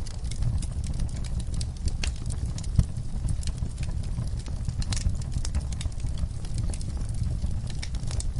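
Wood fire burning in a fireplace: a steady low rumble of flames with irregular crackles and pops, one sharper pop a little before three seconds in.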